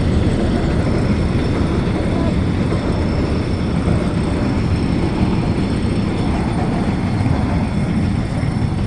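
Container freight train rolling past with a steady, loud rumble of wheels and wagons on the rails.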